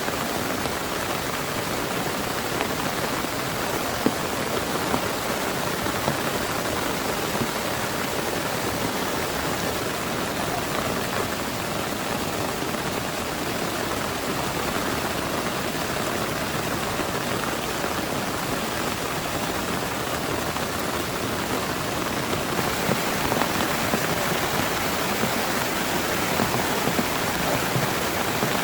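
Heavy rain falling steadily, an even hiss with scattered sharper drop hits that grow more frequent in the last few seconds.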